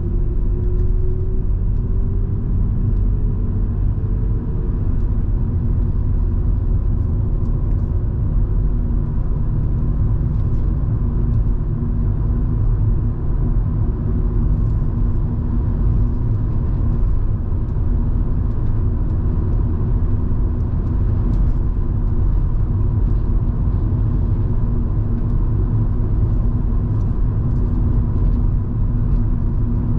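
Volvo V70 2.5T's turbocharged five-cylinder engine and road noise heard from inside the cabin while driving, a steady low rumble. The engine note rises slightly over the first few seconds.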